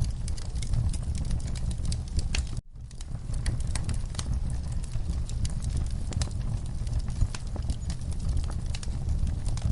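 Wood fire crackling, with frequent sharp pops and snaps over a steady low rumble. The sound cuts out completely for a split second a little over two seconds in, then comes back.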